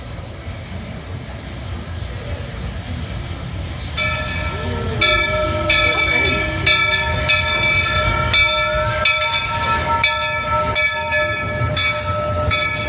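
Walt Disney World Railroad steam train running with a low rumble. About four seconds in, a high, steady ringing of several tones starts and holds to the end, broken by regular clicks about twice a second.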